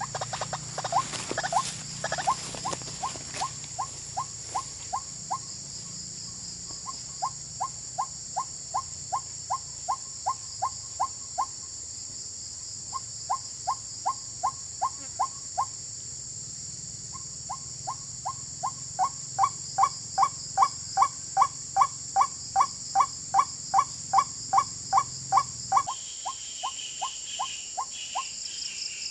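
White-breasted waterhen (ruak-ruak) calling: runs of short, evenly repeated notes, about three a second, in several bouts that grow louder in the second half. A steady high insect drone sits underneath, and a higher chirping comes in near the end.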